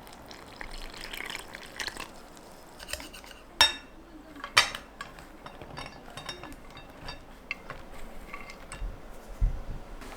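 Kitchenware clinking and clattering: dishes and utensils being handled, with two sharper ringing knocks a few seconds in and a duller thump near the end.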